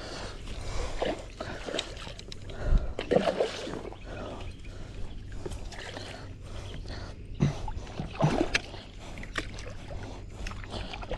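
Water splashing and sloshing around an inflatable kayak while a big bass is fought beside it, with irregular knocks and a few louder thumps.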